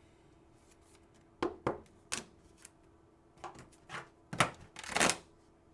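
Trading cards being handled and flipped through: a few short sharp snaps, then a closer run of snaps and rustles, the loudest and longest about five seconds in.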